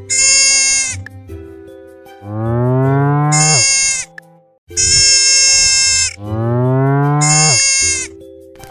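Farm animal calls, likely sheep or goats bleating: a short, high, steady bleat and a longer, deeper call that rises in pitch, alternating twice each. Light background music runs underneath.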